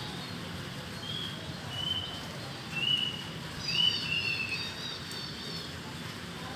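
Steady rain with a songbird singing over it: a few separate whistled notes, then a quicker run of higher notes about four seconds in.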